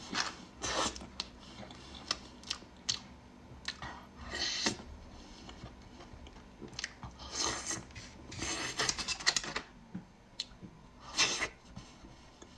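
A person biting and chewing cream-filled xuemeiniang snow-skin mochi cakes: soft, wet chewing with scattered mouth clicks, and louder spells about halfway through and again near the end.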